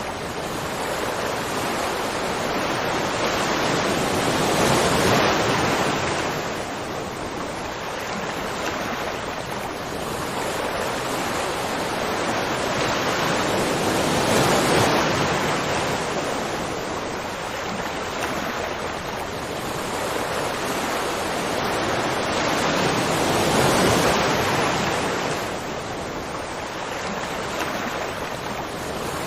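Rushing water, a dense steady roar that swells and eases every nine seconds or so.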